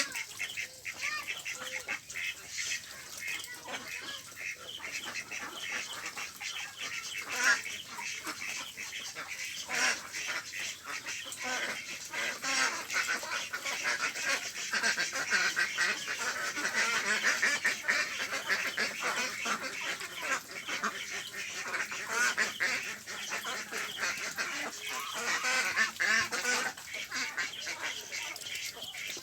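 A flock of ducks quacking and calling over one another in a dense, unbroken chorus that grows busier through the middle.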